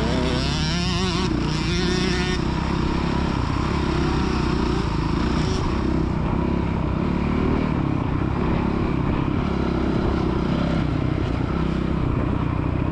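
Dirt bike engines running on a motocross track, a child's bike among them, with a wavering revving note in the first couple of seconds.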